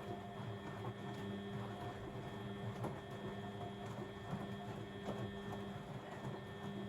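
Blomberg WAF 7442 SL washing machine running: a steady motor hum with light, irregular clicks.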